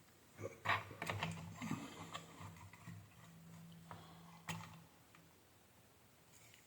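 Light clicks, taps and rustles of hands handling small parts and tools on a workbench, with sharper clicks under a second in, again just after, and near four and a half seconds. A faint low steady hum sits underneath and stops a little before five seconds in.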